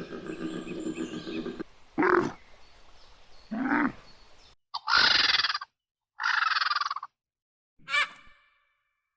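Animal calls: a steady stretch of mixed animal noise, then about five short separate calls, each under a second, with clear gaps between them.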